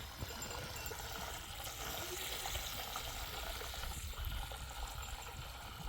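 Steady noise of running water, over a low rumble.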